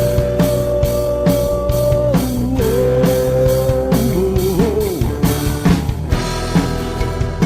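Live rock band playing an instrumental passage: a lead guitar holds one long note, then bends it up and down, over a steady drum beat and bass.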